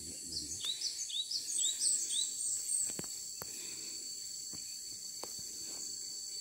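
Cinereous tit (gelatik batu) call: a quick run of repeated high, clipped notes for about two and a half seconds, starting just after the start, over a steady high insect drone. A few sharp clicks fall in the middle.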